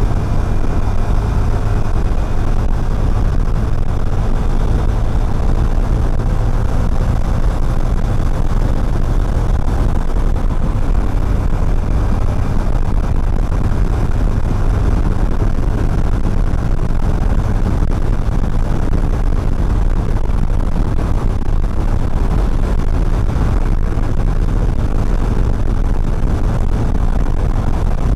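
Steady road noise from riding a motorcycle, heard through a neck-mounted action camera: a constant low rumble of wind and engine with no break or change.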